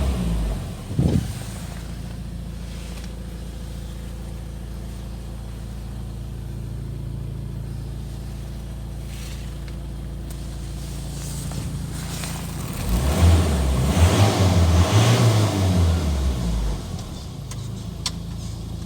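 Ford Ranger 2.2-litre four-cylinder turbo-diesel engine dropping back to a steady idle, then revved up and down a few times for about four seconds before settling back to idle.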